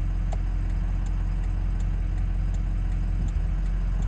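Car engine and road noise heard from inside the cabin: a steady low hum.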